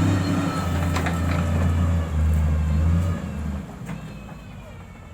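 Heavy-equipment diesel engine running with a deep, steady drone that shifts pitch twice, then fades away steeply after about three seconds, with a few faint clicks.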